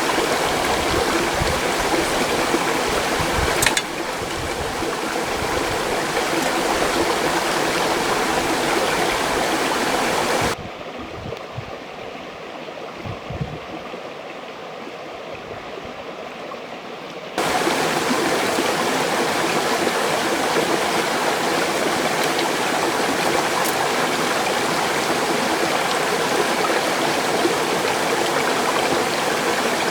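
Mountain stream rushing steadily. About ten seconds in the sound turns suddenly duller and quieter for some seven seconds, with a few low knocks, then comes back just as suddenly.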